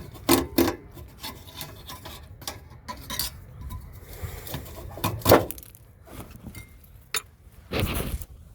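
Irregular rubbing and scraping with several sharp knocks: two close together just after the start, a loud one a little past five seconds in, and a longer scrape near the end.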